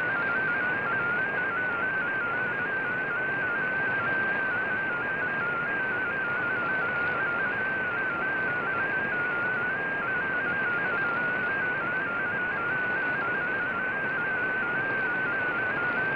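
MFSK digital text transmission received on shortwave: a single tone hopping rapidly among closely spaced pitches, over steady receiver hiss.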